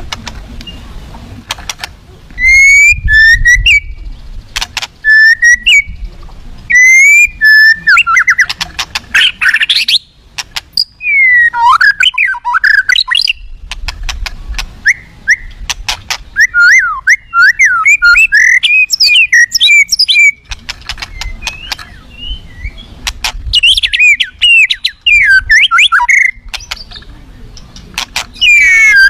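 White-rumped shama (murai batu) singing loudly in an aggressive style. It repeats short whistled phrases for the first several seconds, then breaks into fast, varied warbling with sharp clicking notes between phrases.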